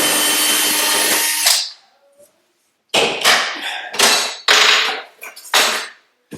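Power drill/driver backing out mounting screws: it runs for about a second and a half and stops, then after a short pause gives four brief bursts.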